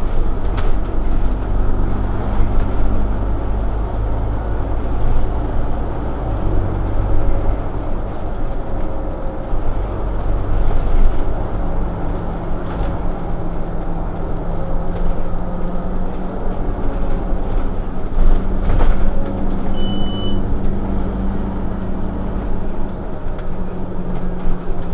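Scania OmniCity single-deck bus running on the road, heard from inside the saloon: a steady diesel engine hum with road rumble, its note shifting pitch a few times. A short high beep sounds near the end.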